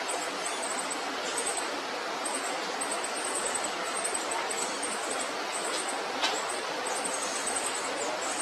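Rapid, very high-pitched chirps repeating every fraction of a second, typical of a nestling bird's begging calls at feeding, over a steady hiss, with one brief click about six seconds in.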